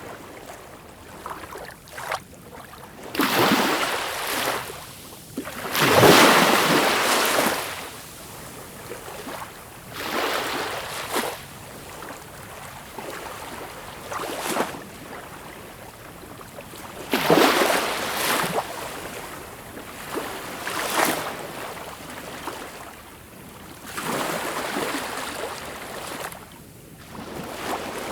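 Sea waves breaking and washing in, a surge of noise that rises and falls every three or four seconds, the biggest about six seconds in.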